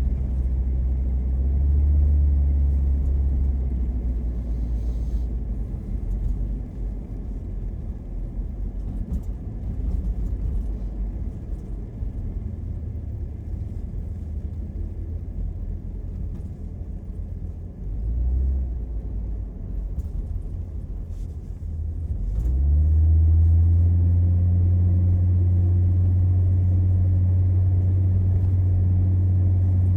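Car driving, a low rumble of engine and road noise. The engine hum fades to a quieter rumble, swells briefly, then about three-quarters of the way in rises in pitch and holds a steady, louder drone.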